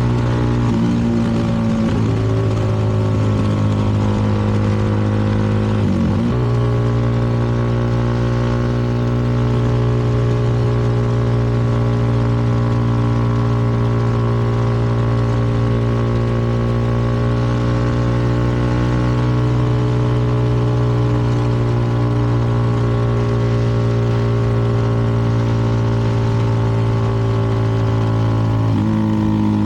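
CFMoto 300NK's single-cylinder engine running at a steady cruise under the rider. Its pitch briefly dips and picks up again near the start, about six seconds in, and near the end.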